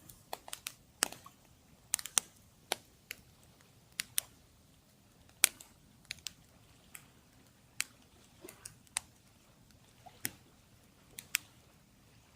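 Wood campfire crackling: irregular sharp pops and snaps, the loudest about five seconds in.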